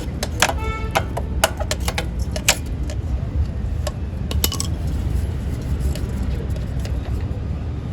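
Sharp metallic clinks and taps of a spanner on the tappet covers of a Hero HF Deluxe engine, one ringing briefly, mostly in the first half, over a steady low rumble.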